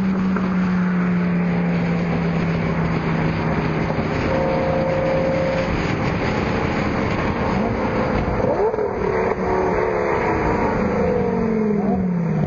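Sports car engines and exhausts running as cars drive past at low speed. One engine holds a steady note for the first half, then several overlap, their pitch falling near the end.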